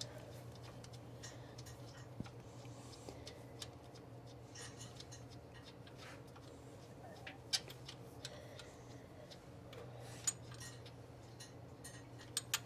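Faint, scattered metallic clicks and taps of hand tools and parts being handled while a distributor is fitted to an engine, over a steady low hum.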